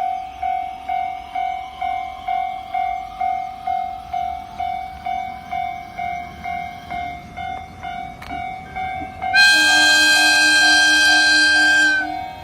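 Japanese railway level-crossing bell ringing steadily at about two strikes a second, with a faint rising whine under it in the first few seconds. About nine seconds in, a train horn sounds loudly for nearly three seconds over the bell.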